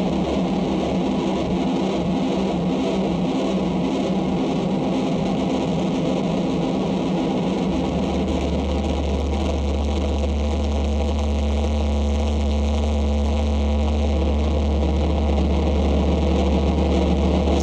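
Live harsh noise music: a dense, unbroken wall of distorted, effects-processed noise. About halfway through a heavy low drone comes in and holds, with a thin held tone over it for a few seconds.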